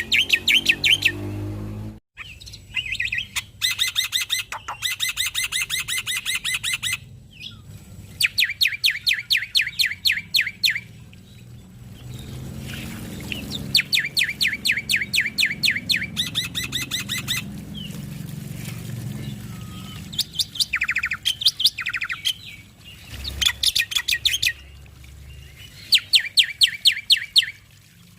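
Male black-winged myna (jalak putih) singing in repeated bouts of fast, evenly spaced notes, about seven a second. Each bout lasts two to three seconds, with short pauses between.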